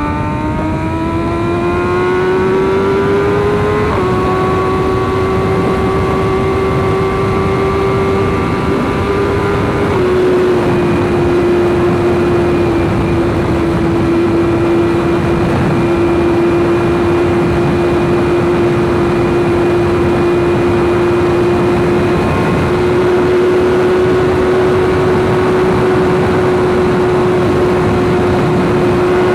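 BMW S1000RR's inline-four engine pulling up through the revs, with an upshift about four seconds in, then holding steady high revs at speed. A steady rush of wind and road noise runs under it.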